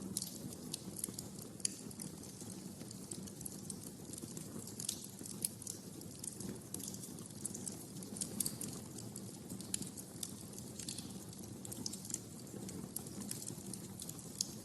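Wood fire crackling and popping in a fireplace: irregular sharp snaps over a low, steady rumble of flames.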